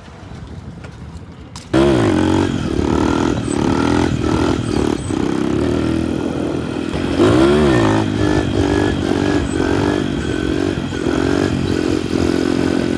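A minibike's small engine running loud and close, revving up and down; it cuts in abruptly about two seconds in, after a stretch of low rumbling noise. There are two sharp rev swells, one just after it starts and another about seven seconds in.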